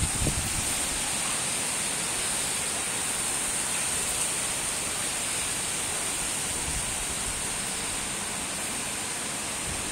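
Storm wind making a steady rushing hiss.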